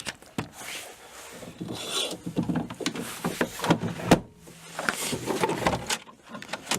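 Ford F-150 tailgate step being folded away: parts rubbing and scraping, with a series of clicks and knocks, the sharpest knock about four seconds in.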